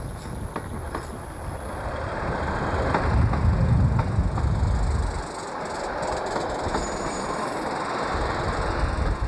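Passenger train coaches rolling past close by, with a steady rumble and wheels clacking over rail joints. The noise is loudest a few seconds in and eases slightly about halfway through as the train draws away.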